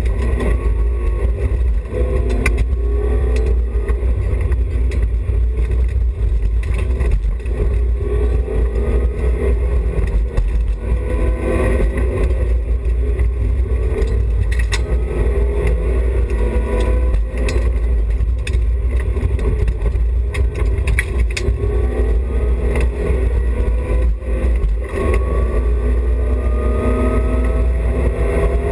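BMW E30 316i rally car's four-cylinder engine under hard acceleration, its pitch climbing and dropping back again and again as it is worked through the low gears, over a loud low drone. Scattered sharp knocks and clicks come through as the car runs the stage.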